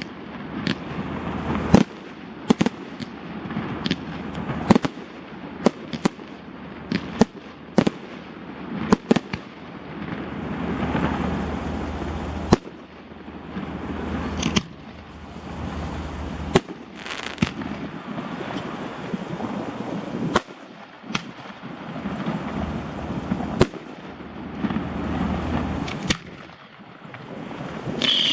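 Fireworks display: sharp bangs of bursting shells at irregular intervals, sometimes several in a second, over a continuous low rumble of booms and their echoes.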